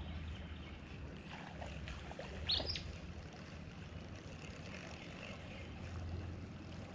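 Faint outdoor river ambience around a fishing kayak: a steady low rumble of wind and moving water, with one short high chirp about two and a half seconds in.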